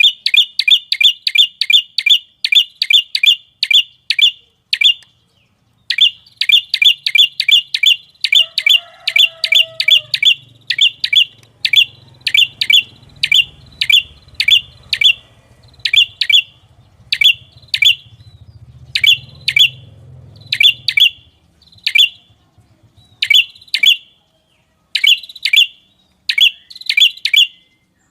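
A small songbird calling in long series of sharp, high chip notes, about four a second at first, then slower and in short groups, with a break about five seconds in.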